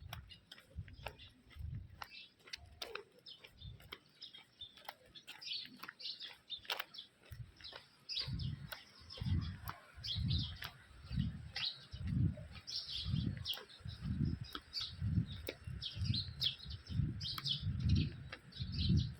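Small birds chirping over and over, with repeated low thuds from about eight seconds in.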